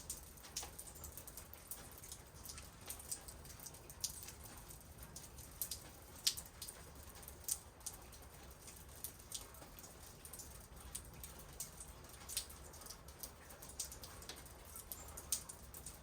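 Raindrops dripping and pattering in irregular, scattered ticks, some louder and closer than others, over a low steady rumble.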